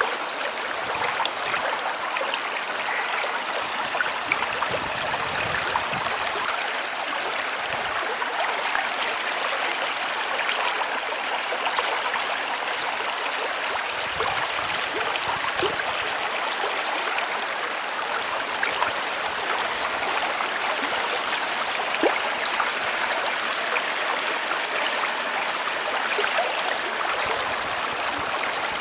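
Water of a large built garden waterfall running steadily, splashing and trickling over rock into a pond.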